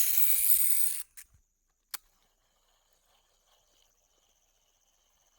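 A loud hissing rush of noise cuts off about a second in, followed by a shorter rush and a single click. After that, night insects chirr faintly and steadily.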